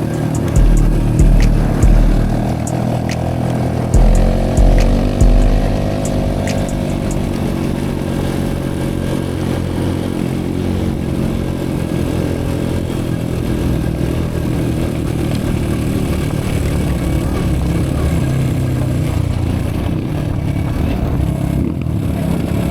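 Dirt bike engine running under way, its pitch rising for a few seconds as it revs up, with several heavy low thumps in the first five seconds.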